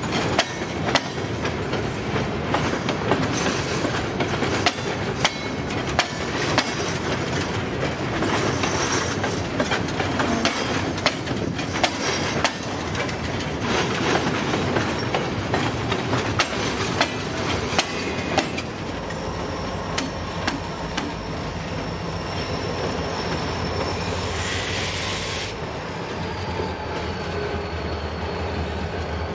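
Freight cars rolling past with rapid clicks of the wheels over rail joints, then the engines of a pair of EMD SD40-2 diesel locomotives running steadily as they come by, with a thin high wheel squeal. A brief hiss comes late on.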